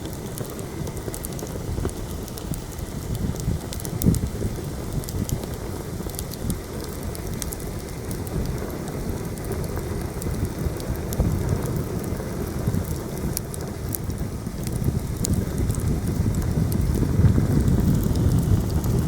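Campfire crackling with scattered sharp pops, under heavy wind gusting and buffeting the microphone with a low rumble that grows stronger near the end.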